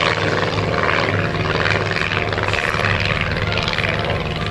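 Propeller engines of First World War fighter aircraft flying a display, droning steadily.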